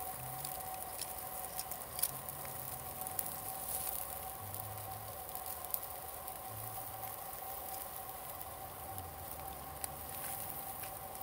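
Fire crackling under grilling yakitori, with scattered small sharp pops over a steady hiss and a faint steady tone.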